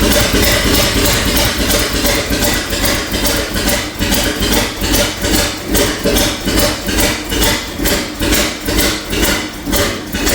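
1984 Chevrolet K20's carbureted gasoline engine running on its first revival, with a rapid clatter over the exhaust note and an uneven surge about twice a second; oil is only just reaching the top end.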